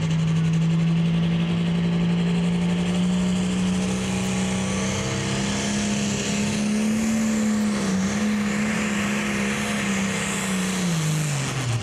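Pro Stock pulling tractor's turbocharged diesel engine running hard under load as it pulls the sled, its pitch climbing slowly, then falling sharply near the end as the revs come down, over a steady hiss.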